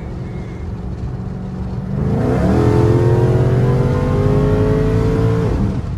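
Supercharged car engine pulling hard from about two seconds in, its pitch climbing steadily with the supercharger's little whine rising along with it, then the revs drop sharply near the end.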